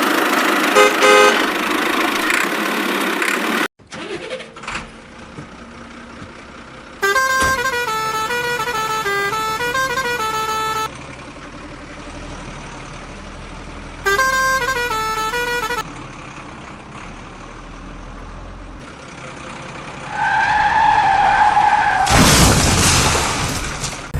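Horn sounds: a short melody of stepped pitched notes, played once and then partly repeated a few seconds later, and later a steady horn blast followed by a loud rush of vehicle noise.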